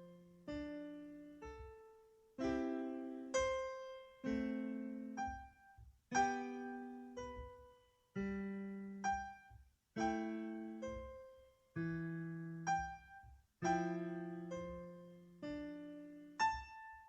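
Background piano music: slow, gentle notes and chords struck about every one to two seconds, each left to ring and fade.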